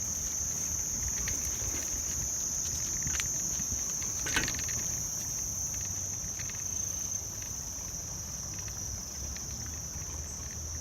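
Steady chorus of insects in late-summer woods: one continuous high-pitched drone that does not let up, over a low rumble, with a couple of faint clicks near the middle.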